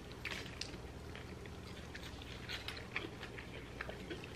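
Two people chewing burgers and fries, with scattered faint wet mouth clicks over a low hum.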